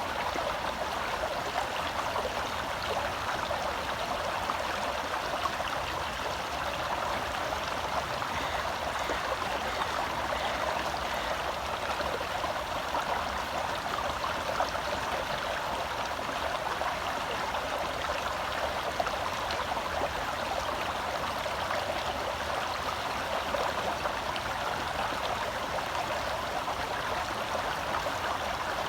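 Shallow forest stream flowing over rocks: a steady, even rush of water with gurgles and trickles close by.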